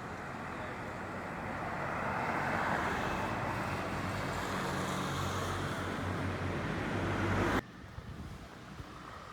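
Road traffic noise: a motor vehicle's rushing tyre and engine sound swells about two seconds in and holds, then cuts off abruptly near the end, leaving quieter road noise.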